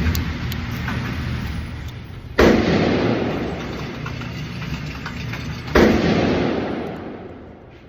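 Two gunshots about three and a half seconds apart, each a sharp crack followed by a long echoing decay.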